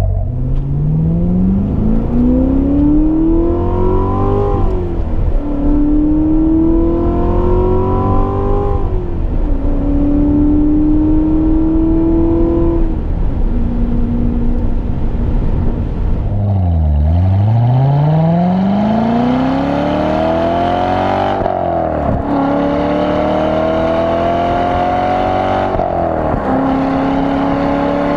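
2016 Corvette Stingray Z51's 6.2-litre LT1 V8 through its dual-mode exhaust, accelerating hard up through the gears: the pitch climbs in each gear and drops sharply at each upshift, five times in all. About two-thirds of the way through, the engine note falls away to low revs and then climbs again.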